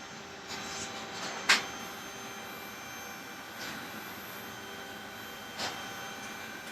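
Steady mechanical hum with a few knocks from handling, one sharp knock about a second and a half in, and softer ones near the middle and toward the end.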